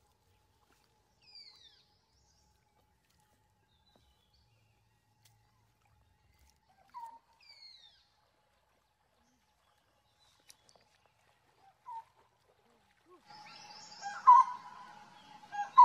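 Quiet outdoor ambience with sparse bird calls: a short note and a high falling whistle that recur every five seconds or so, over a faint steady tone. Near the end a louder, busier stretch of many rising and falling animal calls sets in.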